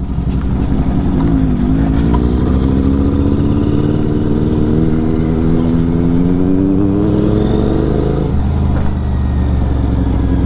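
Kawasaki Z900's inline-four engine through an SC Project exhaust, accelerating with its note rising steadily for several seconds, then dropping suddenly about eight seconds in and running on at a steady pitch.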